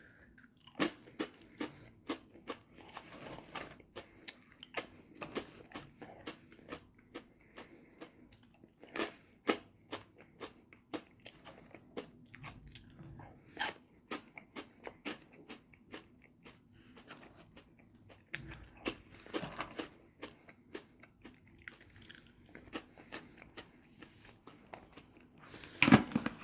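A person chewing crunchy snack mix (cheese curls, tortilla chips, corn chips and pretzel pieces): irregular crisp crunches, close to the mouth. There is a louder burst of noise near the end.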